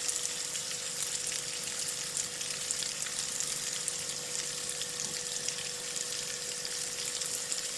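Falafel patties shallow-frying in hot oil in a frying pan: a steady sizzle with many small crackles. A faint steady hum runs underneath.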